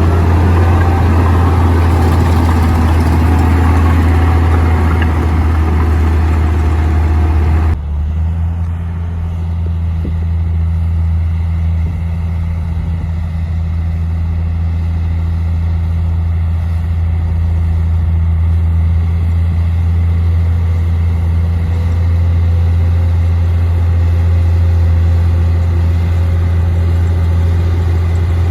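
Komatsu D58P bulldozer's diesel engine running loud and steady with a deep hum. It is noisier and harsher for the first eight seconds or so, then changes abruptly to a smoother, steadier run.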